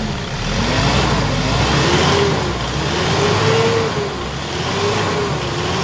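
Hyundai Starex diesel engine revved up and down several times, its pitch rising and falling with each blip of the throttle. It revs without the fuel knock, which is gone now that the faulty injectors are sorted.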